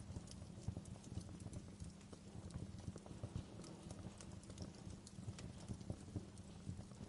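Wood fire crackling in a fireplace: irregular small pops and snaps over a low steady rumble.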